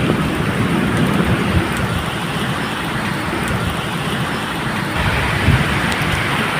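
Steady medium rain, with low rumbling thunder underneath that swells again about five and a half seconds in.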